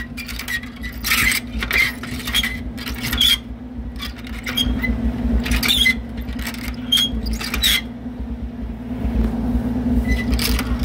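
Oliver 770 tractor running steadily while pulling a Farmhand F76B hay rake, with repeated squeaks and clatter from the rake, which has not yet been greased.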